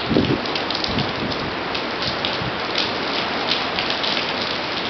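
Heavy hurricane rain pouring steadily onto a concrete driveway, with irregular sharper splashes of drops close by. Hurricane-force wind gusts add low rumbles, briefly a quarter second and a second in.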